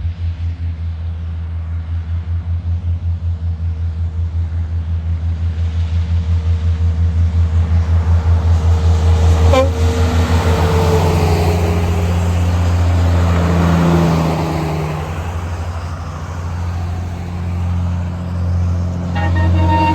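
A heavy vehicle drives past on the highway, its engine drone building to a peak about halfway and then easing. A horn sounds suddenly near the end.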